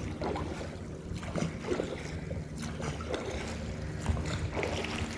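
Steady low hum of a boat's engine out on the water, with wind on the microphone and faint distant voices.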